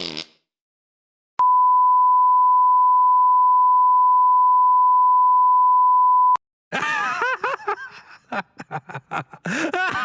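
A steady 1 kHz sine-wave beep, about five seconds long, starting about a second and a half in and cutting off sharply. It is followed by a quick string of short squeaky noises whose pitch slides up and down.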